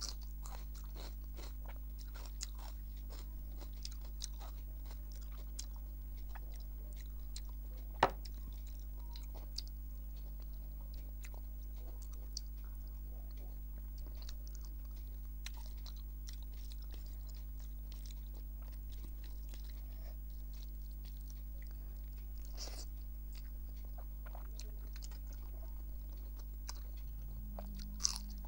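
Close-up mouth sounds of a person eating rice, dal and fried vegetables by hand: soft chewing with many small wet clicks and smacks. One sharper click stands out about eight seconds in and another near the end, over a steady low electrical hum.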